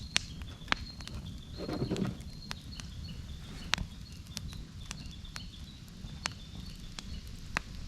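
Wood campfire crackling: sharp pops at irregular intervals, roughly one or two a second, over a low rush of burning, with a brief louder puff about two seconds in. A faint thin high whistle wavers between two close pitches throughout.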